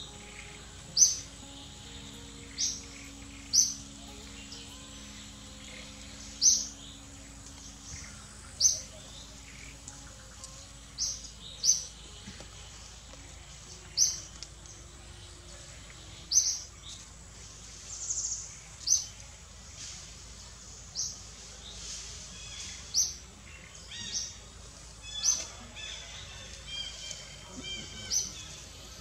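Wild bird chirping repeatedly in forest: short, sharp, high chirps every second or two, with a few other thin bird notes near the end.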